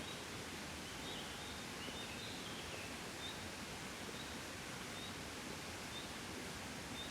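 Gentle wind blowing steadily as a soft, even hiss. Faint short high chirps repeat about once a second, with a brief run of falling chirps in the first few seconds.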